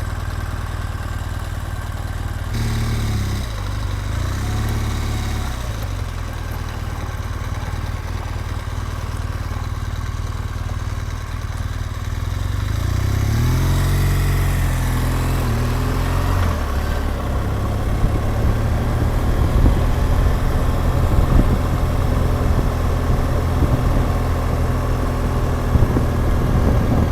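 BMW R1200GS Adventure's flat-twin engine riding on after pulling away, running steadily with its pitch rising through the revs a few seconds in and again around the middle.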